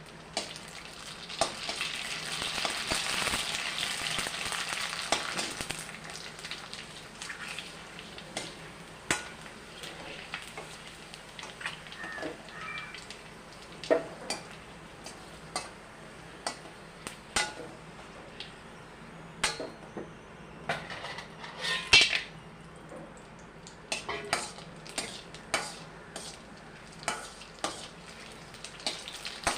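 Hot oil sizzling in a pan as food fries, loudest in the first few seconds and then quieter. A metal utensil clicks and knocks against the pan throughout, with one sharp knock about three-quarters of the way through.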